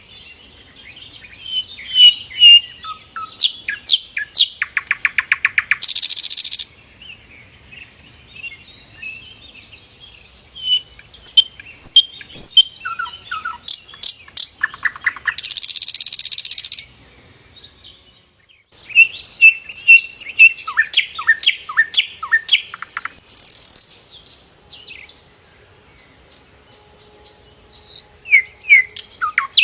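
Sikatan londo flycatcher singing in repeated loud bouts of quick chirps and down-sweeping whistles. Each bout ends in a harsh, buzzy trill, and the bouts are separated by pauses of a few seconds.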